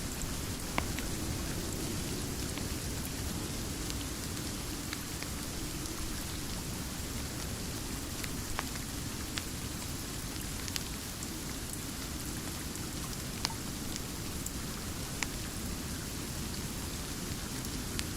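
Steady rain falling, with a sharp pop from a crackling wood fire every few seconds.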